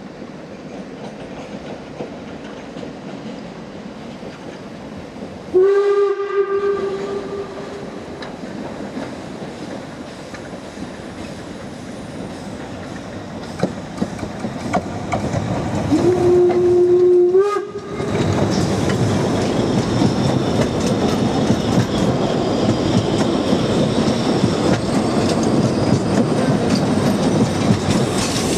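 Narrow-gauge steam train running, its locomotive's whistle sounding two blasts of about two seconds each, some ten seconds apart. Right after the second blast the train noise grows much louder and stays loud.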